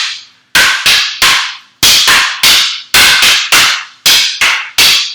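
Escrima sticks clacking together in a two-person Heaven 6 double-stick drill: a fast, even run of sharp wooden strikes, about three a second, some coming in quick pairs.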